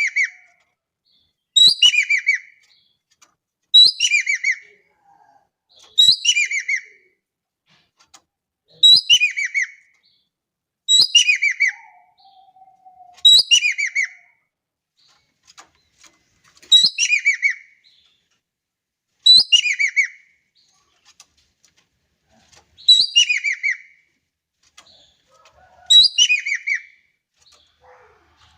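Ekek keling (jovin) bird calling over and over: a short, loud phrase of quick notes sliding down in pitch, repeated about every two seconds.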